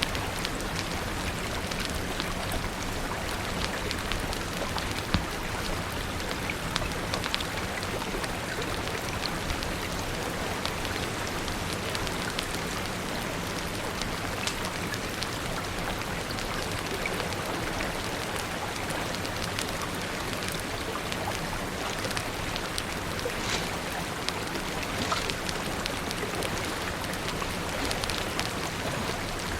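Steady rain falling, with the scattered sharp snaps of a crackling fire over it.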